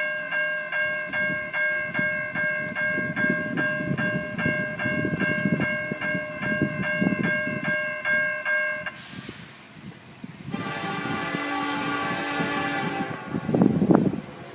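Norfolk Southern diesel locomotive sounding its air horn as the train passes: one long chord lasting about nine seconds, then a second shorter blast. The rumble of the train runs underneath.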